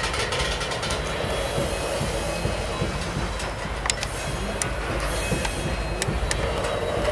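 Coal train hopper cars rolling slowly past close by: a steady low rumble of steel wheels on rail, with a few sharp clicks and a faint wheel squeal now and then.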